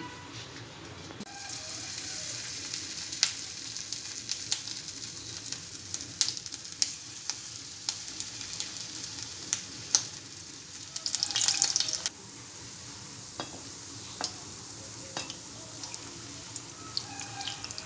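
Potato tikkis (aloo tikki patties) shallow-frying in hot oil: a steady sizzle with scattered crackles and pops, and a louder burst of sizzling about eleven seconds in.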